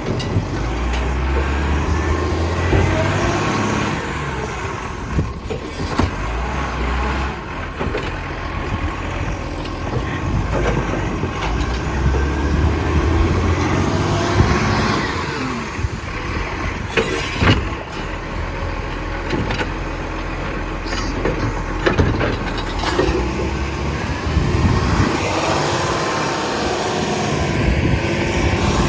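Garbage truck's engine running, rising and falling, with scattered knocks and two short air-brake hisses, about five seconds in and again about seventeen seconds in.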